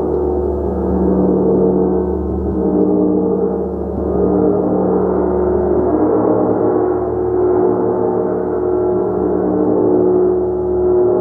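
A gong played continuously in a sustained wash of many overlapping low and middle tones, with no break, gently swelling and easing in loudness.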